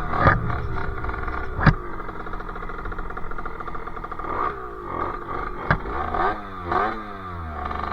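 50cc two-stroke Sherco engine with a KRM expansion exhaust running under way, its revs dropping and climbing again a few times in the second half. Two sharp clicks about a second and a half in and near six seconds in.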